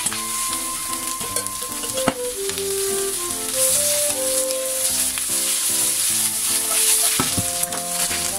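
Carrot, green pepper and cabbage sizzling in a frying pan as the cabbage goes in and is stirred with a wooden spatula. The sizzle gets louder about halfway through, with a few sharp clicks. Soft background music plays underneath.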